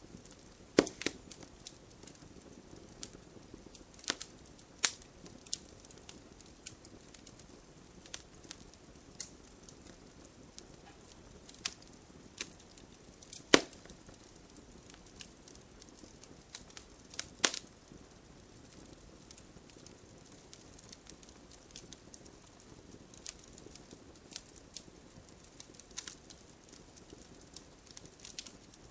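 Wood bonfire crackling, with irregular sharp pops and snaps scattered throughout and two louder pops past the middle, over a soft steady hiss of rain.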